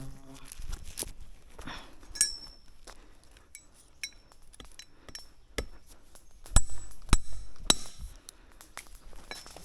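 Irregular sharp knocks and light clinks from hard objects being handled, with a cluster of louder knocks about six and a half to eight seconds in.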